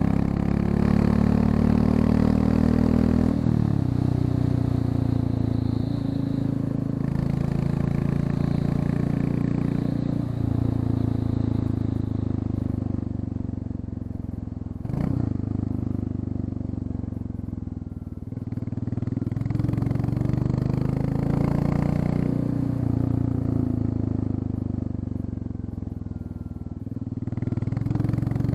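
Royal Enfield Classic 350's single-cylinder engine running with its exhaust end tip removed and the catalysts still fitted, as the motorcycle is ridden. The engine note climbs and drops back sharply about half a dozen times, eases off into quieter stretches near the middle and near the end, and there is one sharp knock about halfway.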